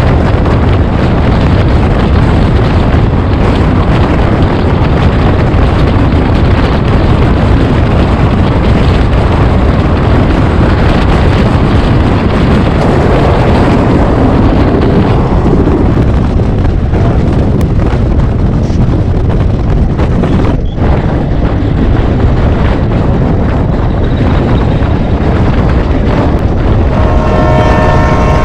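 Express train running at speed: a loud, steady rumble of wheels and coaches, with wind buffeting the microphone. A steady pitched tone joins near the end.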